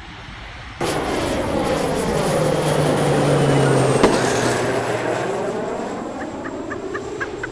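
A loud rushing engine noise of something passing by. It starts suddenly about a second in, swells to a peak around the middle and fades away, with one sharp click at the peak.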